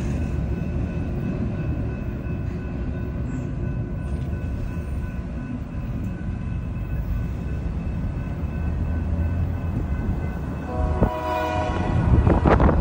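Train running with a steady low rumble, and a short blast of a locomotive's multi-note horn about eleven seconds in. Wind buffets the microphone near the end.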